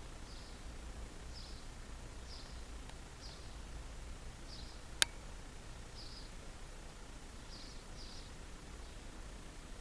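A small bird chirping again and again, short high chirps about once or twice a second, over a low steady rumble. A single sharp click comes about halfway through.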